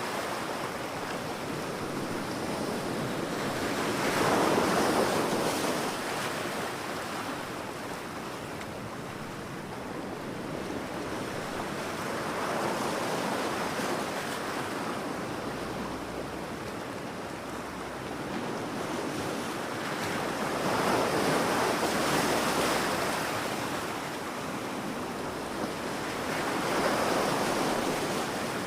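Ocean waves breaking on a beach: a steady wash of surf that swells four times into louder surges as waves come in, with some wind.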